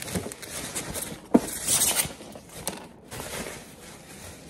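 Packaging being handled while a coffee machine is unboxed: a sharp knock about a second and a half in, followed by a short rustle, with a few light clicks.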